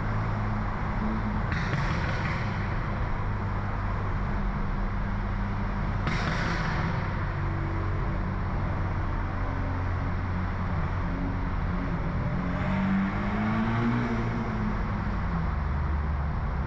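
BMW F30 328i's turbocharged four-cylinder engine running under way through a loud modified exhaust, a steady low drone. About twelve seconds in its pitch climbs and then falls back as the revs go up and down, and three times there is a short rush of airy noise.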